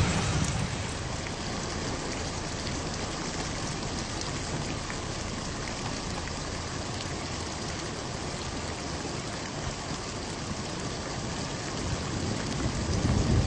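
Steady rain falling, an even hiss of drops. A low rumble of thunder dies away at the start, and another rumble begins to build near the end.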